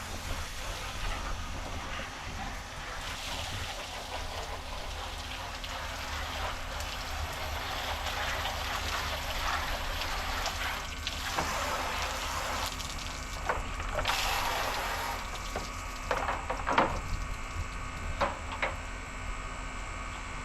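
Water spraying and splashing onto an RC boat hull as it is rinsed off, a steady hiss, with a few sharp knocks in the second half as the hull is handled.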